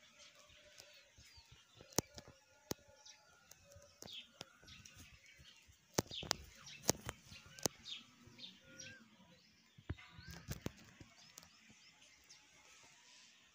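Faint bird chirps and short whistles, with scattered sharp clicks and taps.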